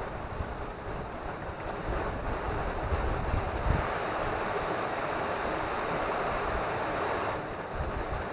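Rushing of a fast, high river current as a steady hiss, swelling louder from about two seconds in and easing near the end. Wind buffets the microphone with low rumbles.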